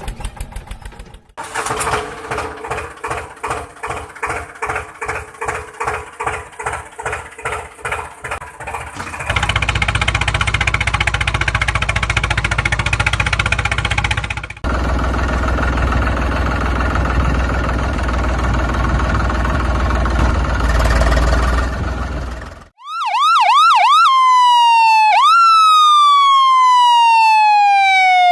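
Vehicle sound effects in sequence: a rhythmic chugging motor sound at about three beats a second, then a steady rumbling engine noise, then an emergency siren wailing for the last five seconds, first in a fast warble and then in slower falling sweeps.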